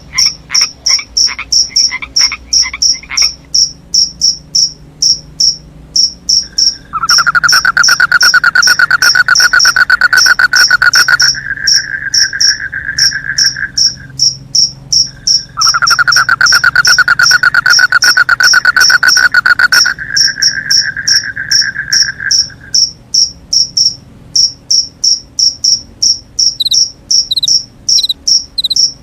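Crickets chirping steadily at night, about three high chirps a second, joined twice by a lower, loud, pulsing trill lasting about seven seconds each time, from a frog or a trilling insect.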